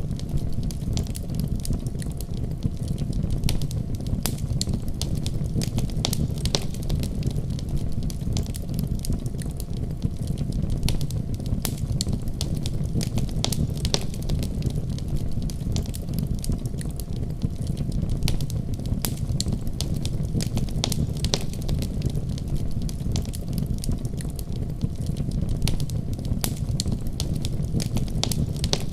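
Fireplace fire crackling, with frequent irregular sharp pops over a steady low rushing of heavy rain.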